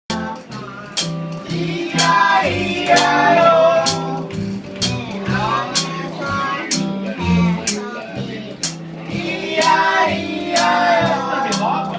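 Live acoustic band music: a guitar strummed in a steady beat while voices sing.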